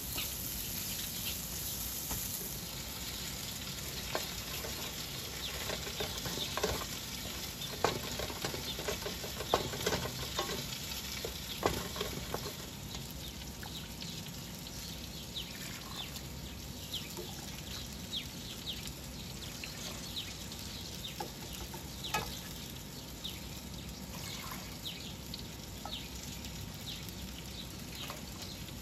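Chopped carrots sizzling in hot oil with a steady hiss, stirred with a spatula that knocks and scrapes against the pan. The knocks come often in the first half and only now and then after that.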